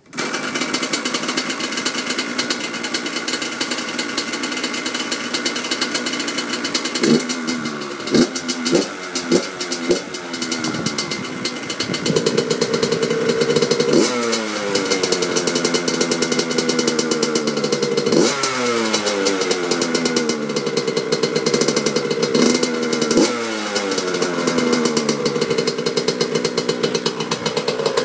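A 2002 Yamaha YZ85's 85cc two-stroke single-cylinder engine running cold after a cold start, first holding a steady idle. About seven seconds in it is given a run of quick throttle blips, then a series of longer revs, each falling back toward idle every few seconds.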